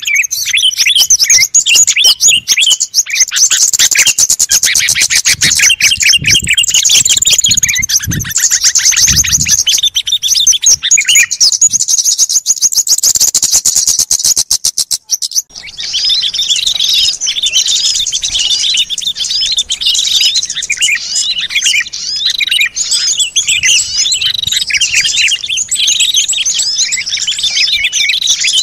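A dense chorus of small songbirds chirping and calling rapidly over one another, played as a bird-lure recording. About halfway through, the sound briefly drops away and a different mix of chirps takes over.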